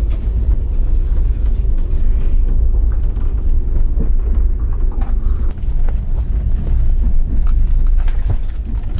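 Steady low rumble of a moving railway carriage, with scattered faint clicks and rattles.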